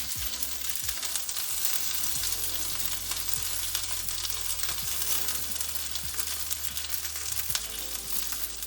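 Chicken drumsticks frying in hot oil in a pan: a steady sizzle with small scattered crackles and pops.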